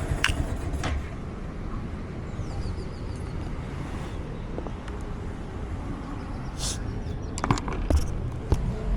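Steady low rumble of road traffic, with a few light clicks and a brief hiss about two-thirds of the way through.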